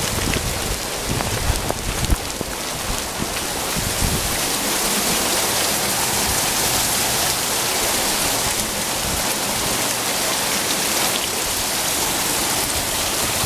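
Heavy hurricane rain falling steadily, a dense, even hiss that keeps up throughout.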